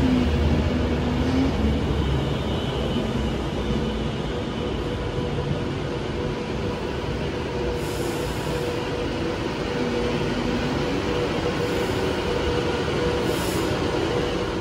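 Train running along the line at the station: a steady rolling rumble of wheels on rails with a constant hum, slightly louder at the start.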